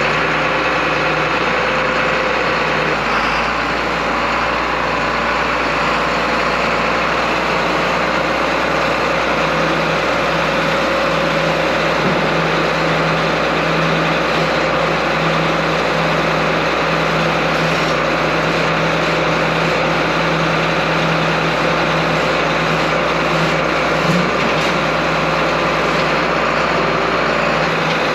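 The engine of a large machine running steadily, a continuous drone at an even level with no pauses.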